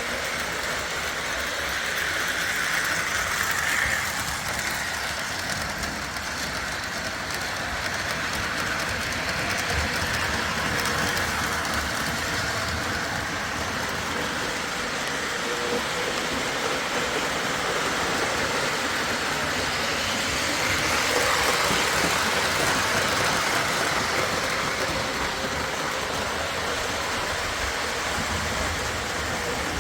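O-gauge model train running steadily along the track, a continuous rolling noise with some clickety-clack.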